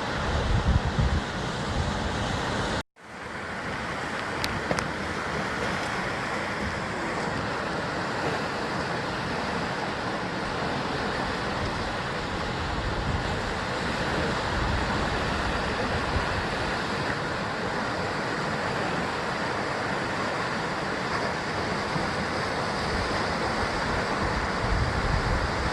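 Sea waves surging against the columnar basalt cliffs of the Jusangjeolli coast: a steady rushing surf with heavier low rumbles near the start and again near the end. The sound cuts out abruptly for a moment about three seconds in, then fades back.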